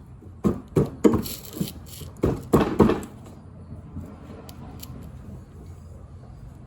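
Socket ratchet tightening the blade bolt on a lawnmower: a handful of sharp metallic clicks and knocks over the first three seconds, then it goes quiet.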